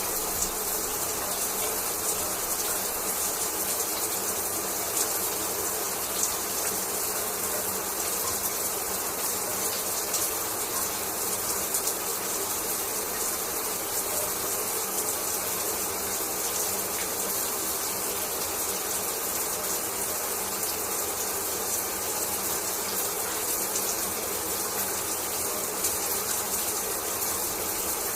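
Shower water running steadily: a spray falling and splashing in a continuous, even hiss.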